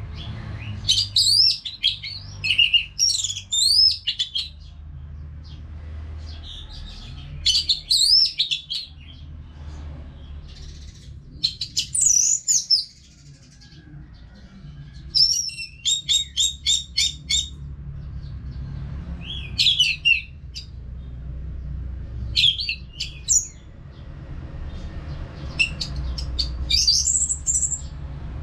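Orange-headed thrush singing in bouts of loud, varied whistled phrases with short pauses between them, one bout a quick run of repeated notes midway through. A steady low rumble runs underneath.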